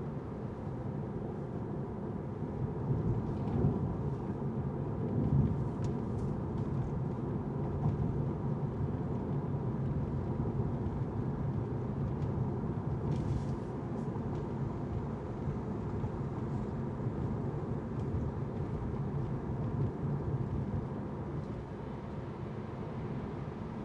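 Steady low rumble of a car driving on city streets, tyres and engine running continuously, swelling briefly a few seconds in, with a few faint ticks.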